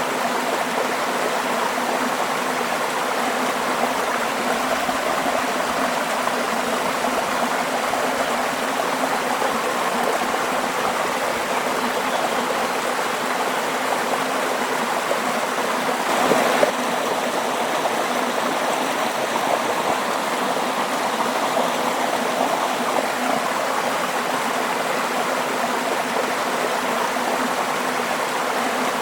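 Flowing water running steadily, a continuous rushing and babbling like a stream, with one brief louder gush a little past halfway.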